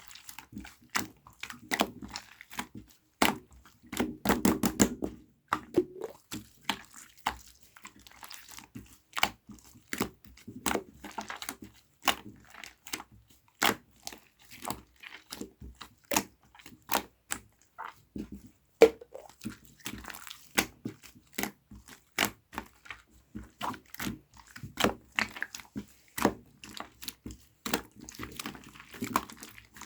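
Slime being squeezed and pressed by hand, giving many irregular sharp clicks and pops of trapped air, with a denser squishing stretch about four seconds in.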